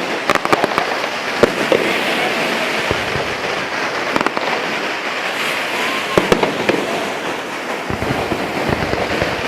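Fireworks going off: a continuous din of bangs and crackling, with sharper cracks standing out now and then.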